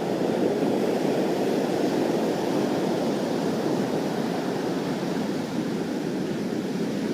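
Heavy surf from an approaching hurricane breaking on the shore: a steady, even rushing noise.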